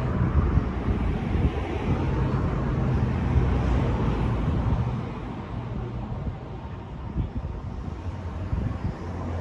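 A large engine running steadily with a low hum, and wind buffeting the microphone.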